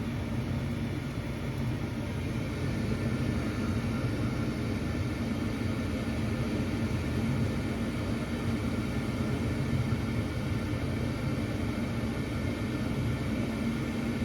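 Gas furnace running, a steady rumble with a constant low hum.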